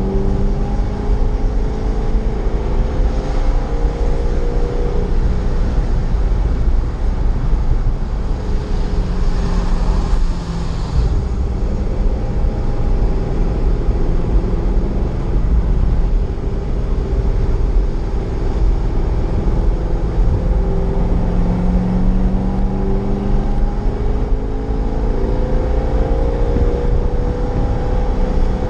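Corvette Z06's V8 engine heard from the driver's helmet camera at racing speed, its pitch rising under throttle and dropping on lifts and shifts, over a heavy steady rumble of wind and road noise. A rushing hiss comes in about eight seconds in and fades a few seconds later.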